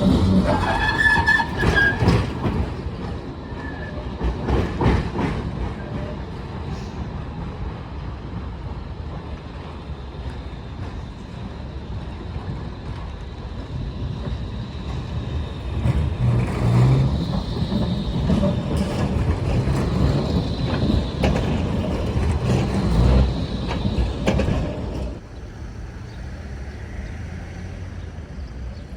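Tram running on street rails: a steady low rumble of wheels on track, loudest in the first two seconds and again from about 16 to 25 seconds, when a faint high whine runs with it. The level drops sharply about 25 seconds in as it moves away.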